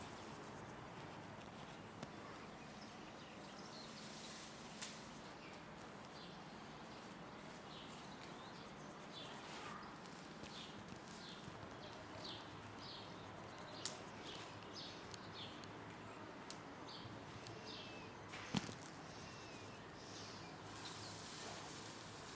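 Small birds chirping, with many short high calls repeating throughout over a faint steady background hiss. A few sharp clicks or knocks come in between, the loudest about three-quarters of the way through.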